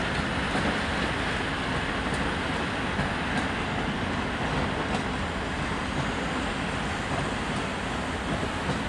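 Freight train of hopper wagons rolling past: a steady rumble and rattle of steel wheels on the rails, with faint sharp clicks now and then. It fades slightly near the end.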